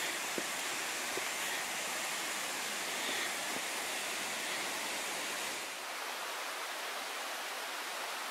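Steady rushing of flowing water, with a few faint taps in the first second. The deeper part of the rush drops away near six seconds in.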